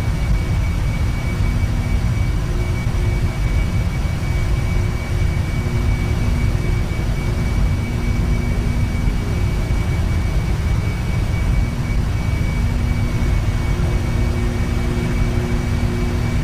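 Jet aircraft engines at steady cruise: a constant low rumble with a faint, thin high whine held steady over it.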